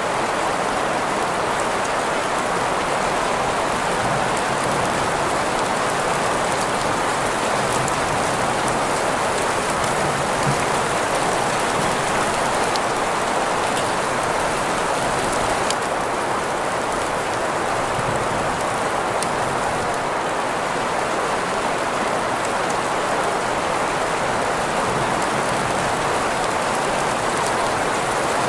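Steady rain falling, an even hiss with scattered fine drop ticks, blended with green noise centred in the middle of the range.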